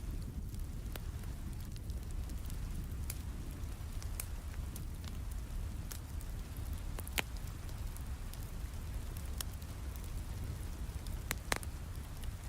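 Wood fire crackling with scattered sharp pops, two louder ones about seven seconds in and near the end, over a steady low rumble of rain.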